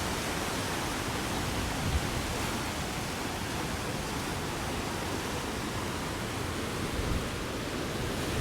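Strong wind blowing steadily, with low thumps about two seconds in and again about seven seconds in.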